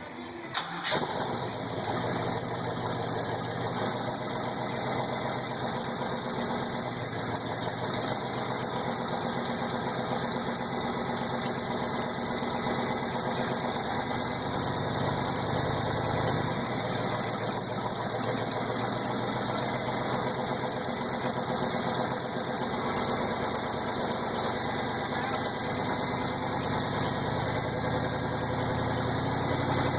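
1973 Corvette's big-block 454 V8 catching about a second in on its first start after restoration, then idling steadily.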